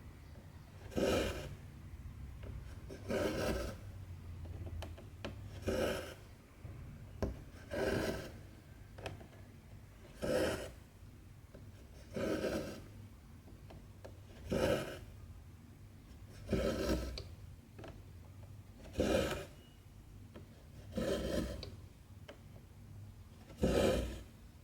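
Cotton embroidery thread drawn through 14-count cross-stitch fabric, a short pull about every two seconds, eleven in all.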